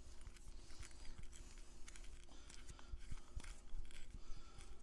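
Faint, irregular small metallic clicks and scrapes as screws are started by hand into a camera ballhead's base on a tripod, left loose before being tightened down.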